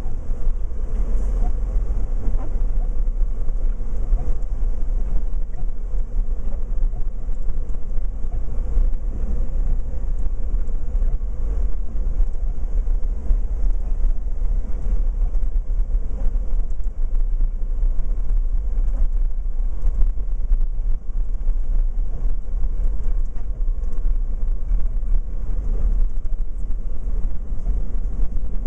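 Steady low rumble of road and engine noise inside a pickup truck's cab while driving on a snowy interstate.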